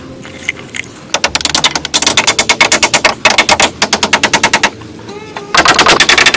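Rapid, loud knocking of about ten sharp strikes a second: one run of several seconds, then a shorter run near the end.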